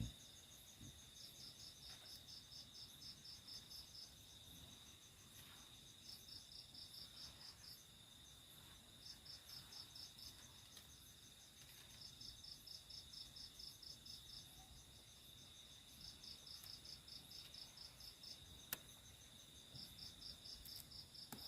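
Faint night insects. One cricket-like insect chirps in short trains of rapid pulses every few seconds, over a steady high-pitched drone of other insects. A single sharp click comes near the end.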